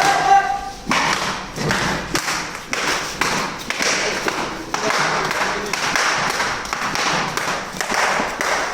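A rapid, continuous run of thuds and slaps from blows landing in a play-fight, with objects such as shoes and cushions striking bodies and furniture.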